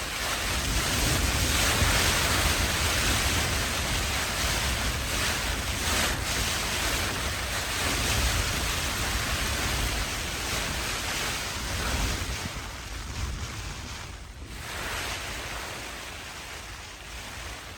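Strong wind gusting, with buffeting on the microphone; the gusts ease off toward the end.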